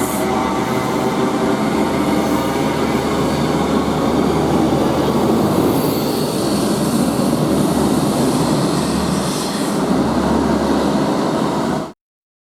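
Class 43 HST diesel power car running loud and steady, its engine note a stack of steady tones over the rumble of the train on the rails. The sound cuts off suddenly just before the end.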